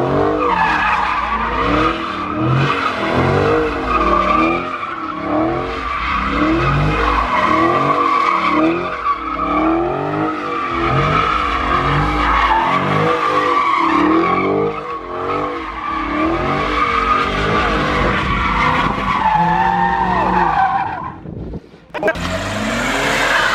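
Car doing donuts: the engine revs up and falls back again and again, about once a second, over a continuous tire squeal. Near the end the sound drops away briefly and then carries on.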